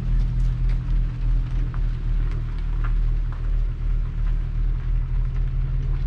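A motor vehicle's engine running steadily at a low, even speed.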